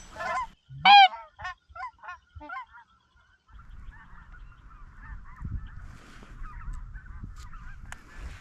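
Snow geese calling: about half a dozen loud close honks in the first few seconds, the loudest about a second in, then a steady chatter of many geese calling further off.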